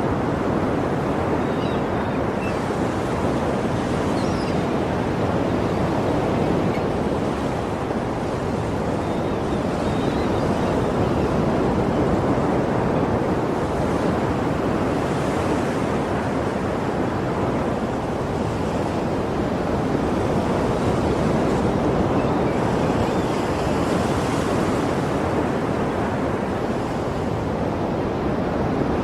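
Sea surf: a steady, continuous wash of waves, its hiss swelling a little about halfway through and again a few seconds before the end.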